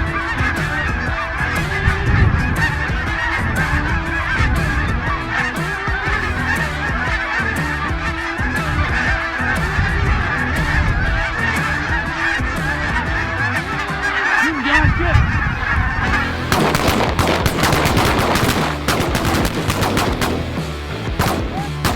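A large flock of geese honking, many birds calling at once in a dense, continuous chorus. About 16 seconds in the sound turns to a rougher, noisier stretch with many sharp cracks.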